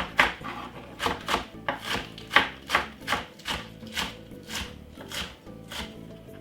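Knife chopping spring onion on a cutting board, a run of quick strokes about three a second that grow fainter toward the end.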